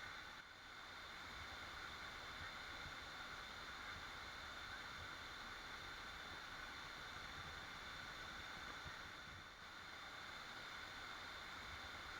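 Waterfall: falling water rushing steadily as an even hiss, dipping briefly in level twice.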